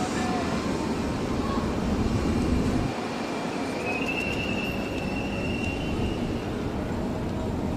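Electric commuter train running on the rails, a steady rumble, with a thin high-pitched wheel squeal for a couple of seconds in the middle.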